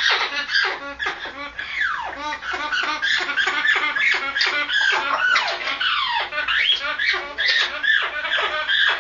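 Red-lored Amazon parrot giving its breeding-season mating call: a fast, unbroken chatter with a downward-sliding whistle about every two seconds.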